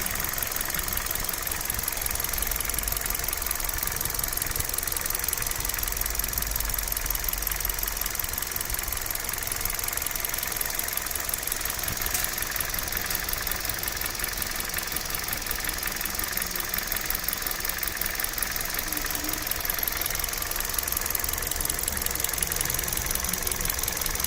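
Kia Rio's G4FA 1.4-litre four-cylinder petrol engine running steadily with a fast, even ticking clatter over its hum: the racket the owner is showing as an abnormal engine noise.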